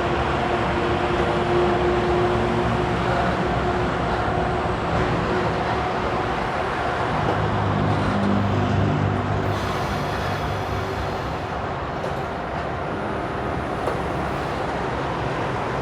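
Diesel freight train hauled by GE Dash 8 and Dash 9 locomotives running past: a steady rumble with a low engine note that grows strongest about halfway through, then eases slightly.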